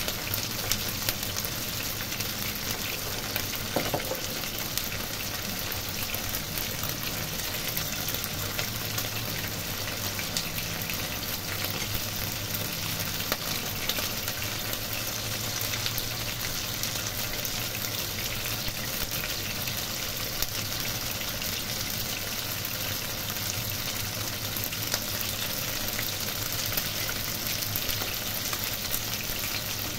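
Lemongrass-marinated chicken steaks frying in shallow oil in a non-stick wok: a steady sizzle with constant small crackles and pops.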